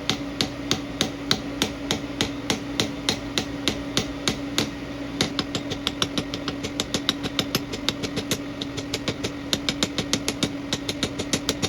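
Power hammer striking a metal tube on the die in an even rhythm, about three blows a second, quickening to about five a second partway through, over a steady machine hum. The blows are forging the groove for the stem into the tapered oval.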